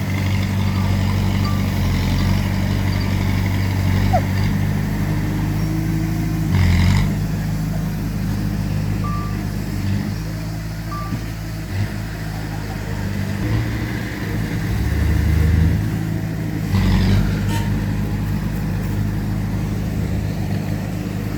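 Heavy diesel earthmoving machinery running steadily, with the engine note shifting now and then. Two short, louder noises come about seven and seventeen seconds in.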